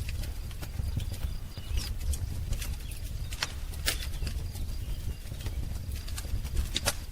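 Wood fire crackling, with irregular sharp pops and snaps over a steady low rumble, and faint high bird chirps a few times in the background.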